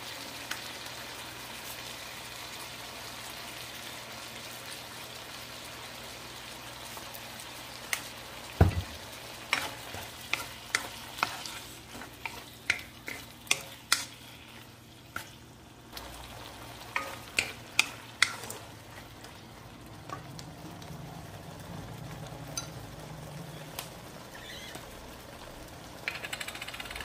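Squid frying in oil and soy sauce in a nonstick wok, sizzling steadily. A wooden spatula stirs it, with a run of sharp taps against the pan through the middle.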